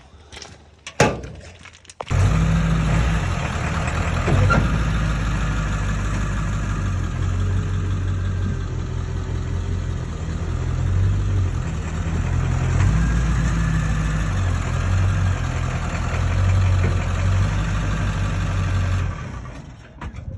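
A vehicle engine running steadily, starting abruptly after a single sharp knock and cutting off abruptly near the end.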